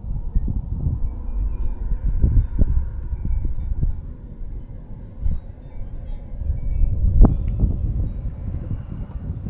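Wind buffeting the microphone in uneven gusts, with a cricket chirping steadily in the background at about two high-pitched chirps a second.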